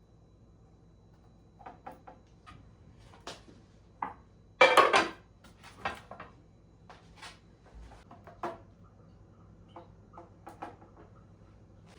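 Kitchen clatter of dishes, pots and utensils being handled and set down: a series of light knocks and clicks, with one louder clatter about five seconds in.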